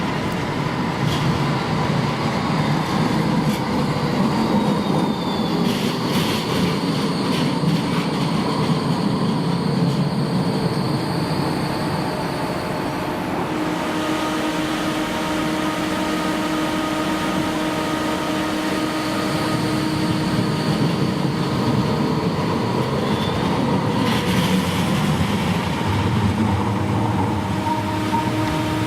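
Tram on the rails, a low rumble of wheels and running gear; from about halfway a steady electric hum with several held tones joins in.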